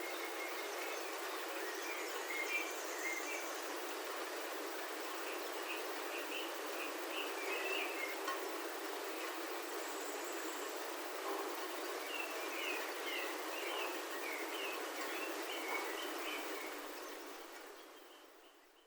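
Steady rain on a roof, heard from inside, with birds chirping in short clusters of high notes over it. The sound fades out near the end.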